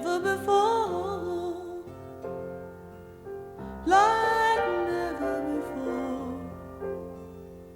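Slow piano ballad: a female voice holds two sung phrases with vibrato, one at the start and one rising into a long note about halfway through, over soft sustained piano chords.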